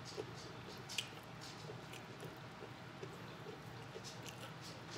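Close-up mouth sounds of chewing fried chicken, with fingers tearing the pieces apart: a steady run of small wet clicks and crackles, with sharper clicks near the start and about a second in.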